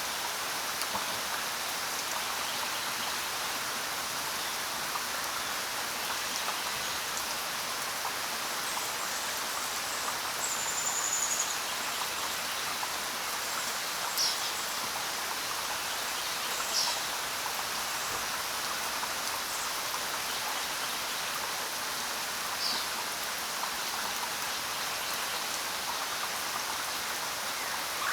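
Steady rain falling, with a few brief high bird chirps scattered over it.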